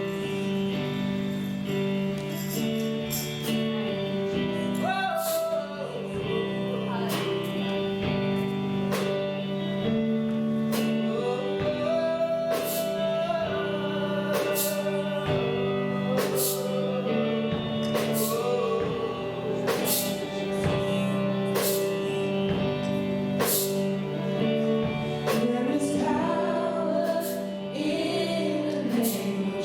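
Gospel worship music: held chords with a singing voice gliding over them and short percussion taps keeping a steady beat.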